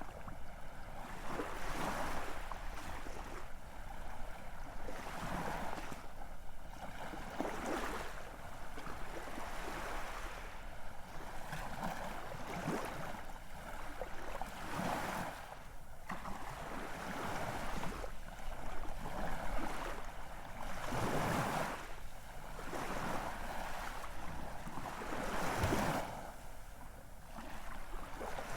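Ocean surf breaking and washing in: a hiss of waves that swells and fades every few seconds, with the strongest surges in the second half.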